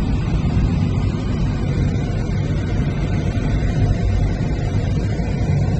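Motor vehicle on the move: steady low engine and road noise, heard from on board.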